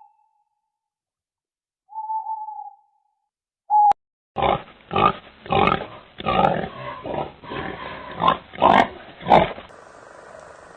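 An animal calling: two short, clear calls, then a run of about eight short, rough calls in quick succession, after which only a faint steady hiss remains.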